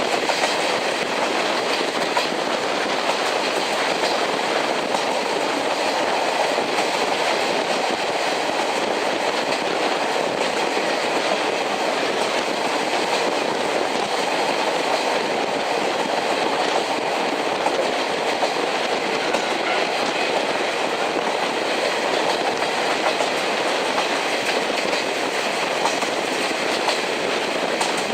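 Steady running noise of a train at speed: wheels rolling over the rails with the clickety-clack of rail joints, unchanging throughout.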